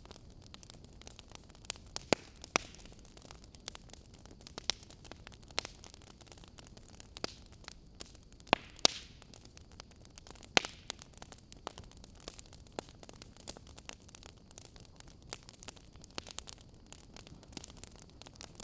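Wood fire burning in an open fireplace: irregular sharp pops and crackles over a soft steady hiss, with a few louder snaps about two seconds in, near the middle and just after.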